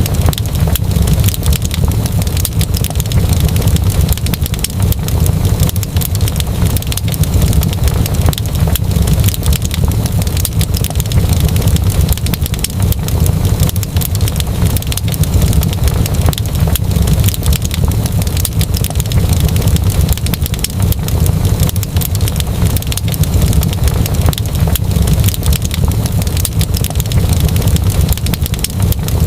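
Wood fire crackling in a fireplace: dense small crackles over a steady low rumble of the flames.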